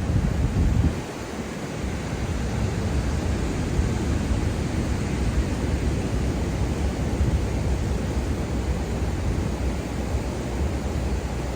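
Ocean waves washing onto a beach as a steady surf hiss, with wind buffeting the microphone in low rumbling gusts, the strongest in the first second.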